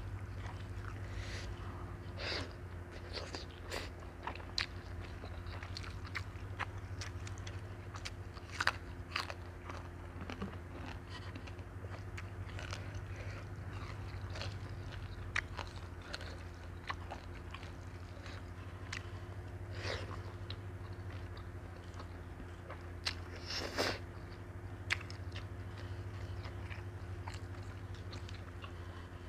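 Close-miked eating: irregular crunching and chewing of fresh lettuce leaves and seafood noodle salad, over a steady low hum.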